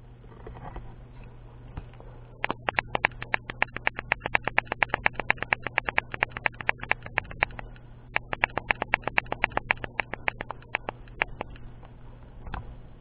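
Rapid sharp clicking or tapping, about eight clicks a second, starting a couple of seconds in, pausing briefly past the middle and stopping near the end, over a steady low hum.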